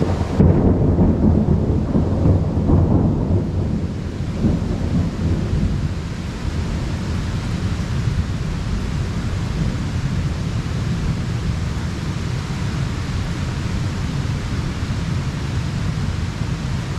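Heavy rain falling steadily, with a roll of thunder that breaks in about half a second in, rumbles low for three or four seconds and fades, swelling once more briefly before the rain is left alone.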